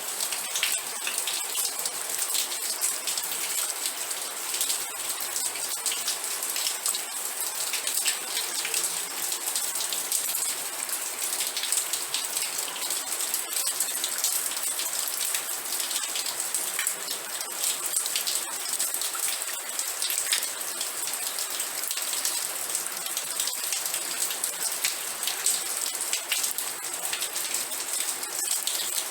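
Steady rain, a dense spray of separate drops striking a surface, even in level throughout.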